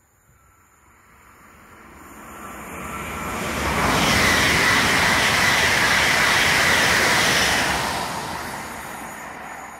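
PKP Intercity ED161 Dart electric multiple unit passing through at speed. Its running noise builds from faint, stays loud for about four seconds with a steady high tone, then fades as it goes away.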